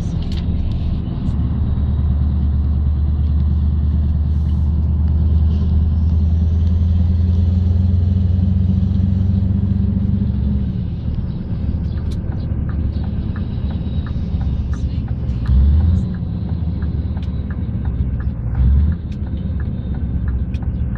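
Scania R580's V8 diesel truck engine running, a steady low rumble that is heaviest for the first ten seconds and then eases off. A light regular ticking comes in for a few seconds after the rumble eases, and two short louder low thumps come near the end.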